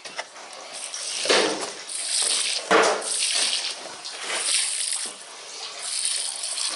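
Water poured by hand from a container onto potted tomato plants, splashing in a few uneven surges.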